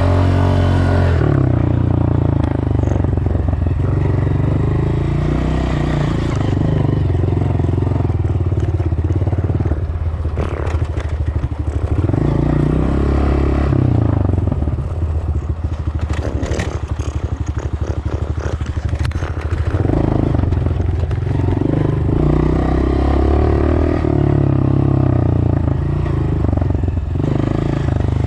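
Dirt bike engine running under a rider, its speed rising and falling as the throttle and gears change. Through the middle stretch there is rattling and knocking from the bike over rough ground.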